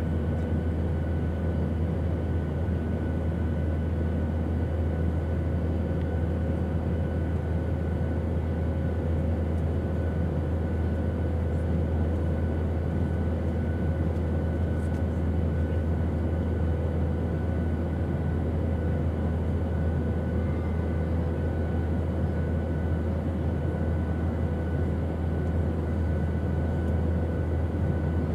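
Airplane engine drone, a steady low hum with a few constant tones above it and an even rushing noise, unchanging throughout.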